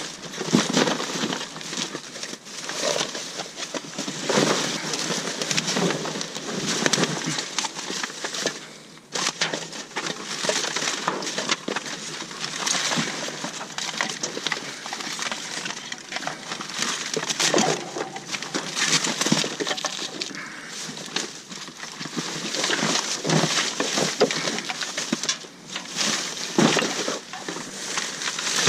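Rummaging through a dumpster full of boxes, bags and discarded electronics: continuous irregular rustling, crunching and crackling as items are shifted and pulled out.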